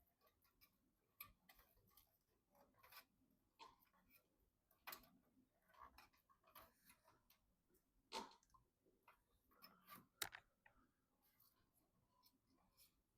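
Faint, scattered clicks and light taps of computer hardware being handled during assembly, the sharpest about five, eight and ten seconds in.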